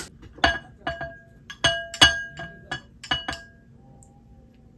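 Tableware clinking: about eight light strikes of a utensil against a dish that rings briefly at the same pitch each time, bunched in the first three and a half seconds.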